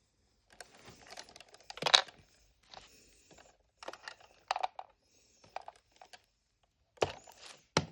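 Small plastic toy pieces being handled: irregular clicks and light knocks mixed with short bouts of rustling and crinkling, with a sharper knock about two seconds in and a cluster of clicks near the end.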